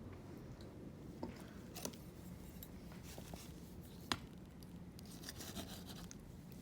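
Faint sounds of a knife and fork cutting steak on a plate, with a few light clicks of cutlery against the plate, the sharpest about four seconds in.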